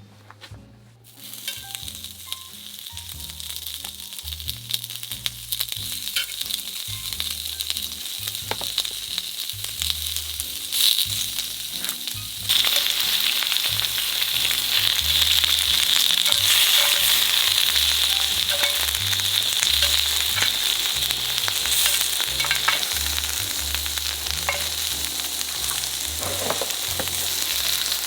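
Beef and scallops sizzling as they grill on a hot pan. The sizzle starts about a second in, builds, and jumps suddenly louder about twelve seconds in.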